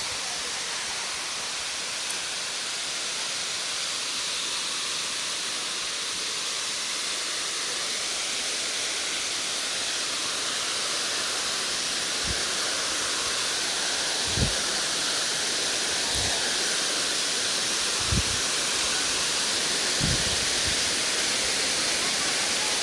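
Waterfall rushing in a steady, even roar of falling water. A few short, low bumps come in the second half.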